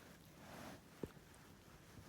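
Near silence with faint rustling from a puppy at play, and one soft thump about a second in.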